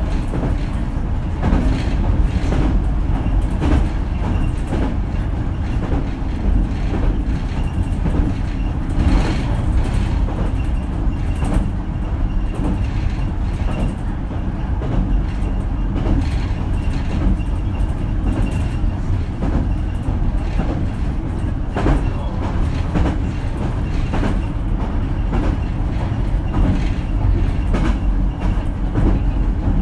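Running noise heard from inside a JR Kyushu BEC819 series battery electric train car (KuMoHa BEC819-3) travelling between stations: a steady low rumble with frequent irregular clicks and knocks from the wheels on the rails.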